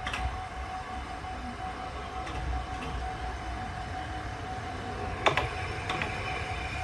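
Diesel railcar approaching and drawing into the station: a steady low engine-and-track rumble, with pairs of sharp wheel clicks over rail joints, the loudest pair about five seconds in. A thin steady high tone hums throughout.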